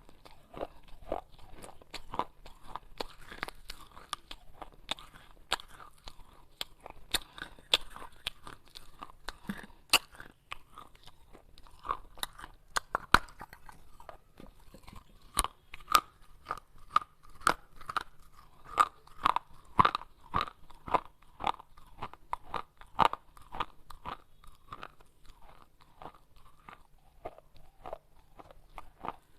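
Pieces of baked clay pot being bitten and chewed close to the microphone: dense, irregular crunching made of many sharp cracks, growing louder and thicker about midway.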